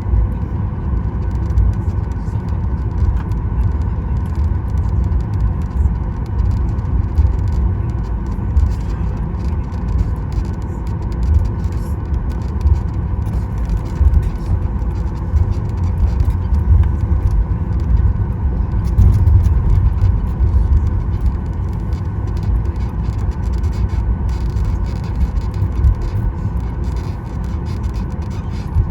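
Cabin noise of a Boeing 737 MAX 9 taxiing, heard from inside: a steady low rumble from the wheels and the idling CFM LEAP-1B engines, with a faint steady tone above it.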